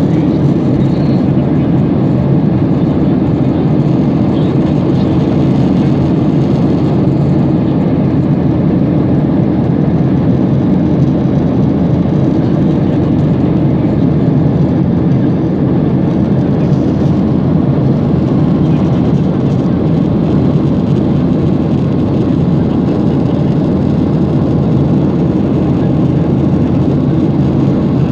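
Steady low rumble of an airliner cabin in flight: the engines and rushing air heard from inside the cabin, unchanging throughout.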